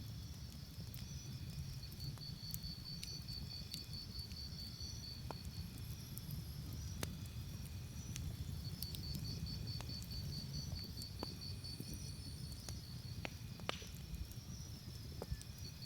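Crickets trilling in high, fast-pulsing stretches over a crackling campfire, with scattered sharp pops and a low steady rumble.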